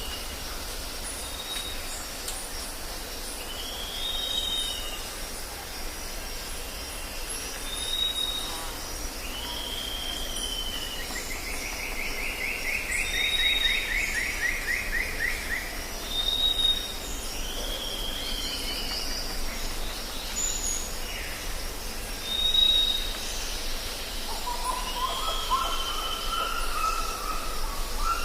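Jungle ambience: birds calling over a steady high drone of insects. A short arched call repeats about every two seconds, a longer trilled call comes near the middle, and a lower call comes near the end.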